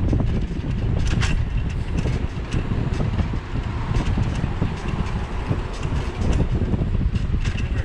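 Wind buffeting a GoPro's microphone while cycling: a steady low rumble with a few short clicks.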